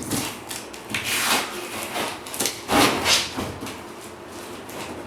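Cardboard box being torn and pulled apart by hand, with irregular bursts of scraping and rubbing, loudest about a second in and again around three seconds in.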